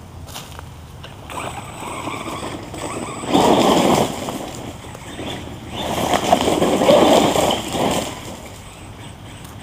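Redcat Volcano electric RC truck driving, with two noisy rushes as it passes: a short one about three seconds in and a longer one from about six to eight seconds.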